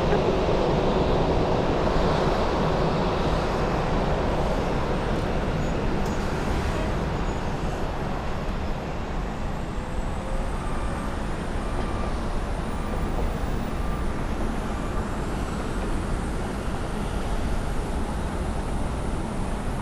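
Airbus A321 jet airliner landing: a steady, low engine and air noise with no breaks.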